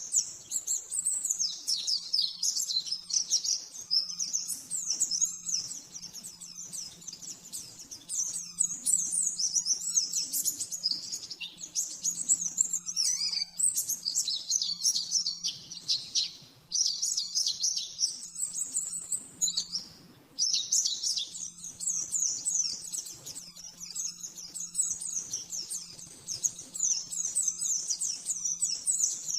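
White-eye (pleci) singing a fast, continuous, high-pitched chattering song in the rapid 'nembak' style, broken by two short pauses in the middle.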